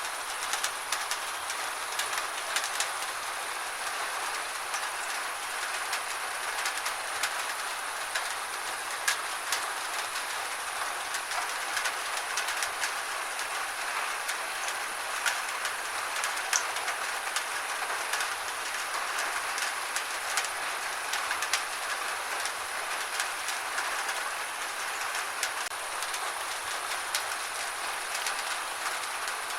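Steady rain falling: an even hiss with many scattered, sharp ticks of drops striking a surface.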